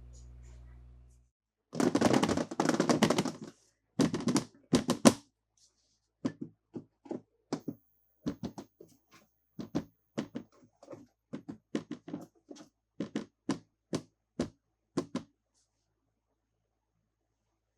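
Small plastic toys and packaging being handled at close range. A dense burst of rattling is followed by a run of light, separate clicks, about two a second, that stops near the end.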